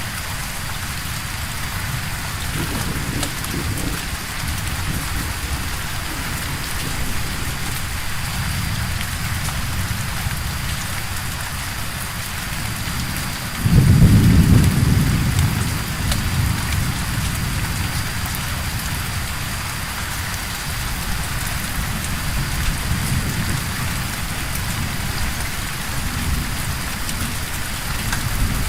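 Steady rain falling, with one thunderclap about halfway through: a sudden low rumble that dies away over a few seconds.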